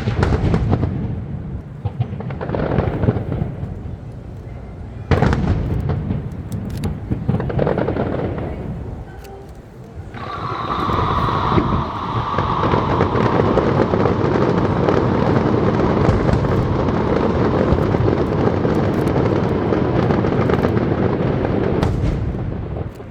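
Fireworks display bursting overhead: big booms near the start and about five seconds in, each dying away slowly, then from about ten seconds in a dense, unbroken barrage of bangs and crackle.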